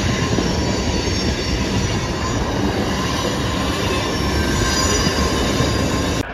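Freight train cars rolling past on steel rails, a dense rumble with several steady high-pitched wheel squeals over it. The sound cuts off suddenly near the end.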